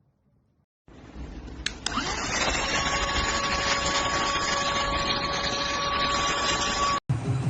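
ST6101 cordless vacuum cleaner switched on: its motor starts about a second in, spins up to full speed and runs steadily with a high whine, then cuts off abruptly near the end.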